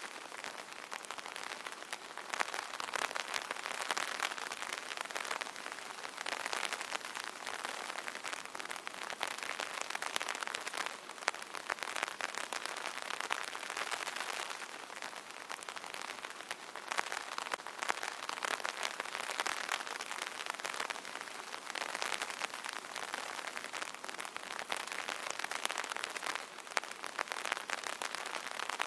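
Light rain pattering steadily on an umbrella canopy: a dense patter of many small drops that swells and eases every few seconds.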